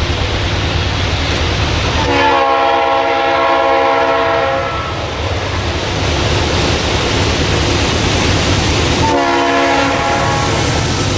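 Diesel freight locomotive rumbling past while sounding its multi-chime air horn: one long blast about two seconds in, then a shorter blast near the end.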